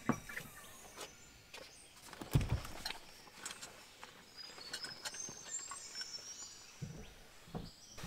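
Quiet outdoor ambience: faint bird chirps with scattered light knocks and rustles, and a soft thump about two and a half seconds in.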